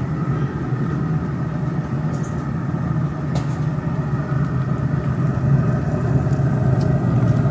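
A steady low rumble with a hum, slowly growing a little louder.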